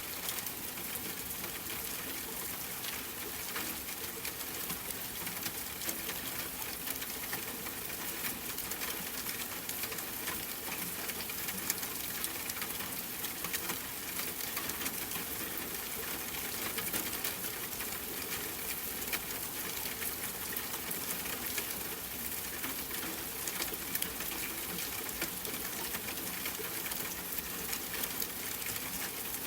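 Steady rain falling: an even hiss full of fine drop ticks, with a low hum underneath.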